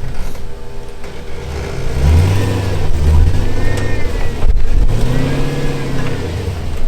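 Off-road vehicle's engine revving in two pushes, about two seconds in and again about five seconds in, as it crawls up a rock obstacle.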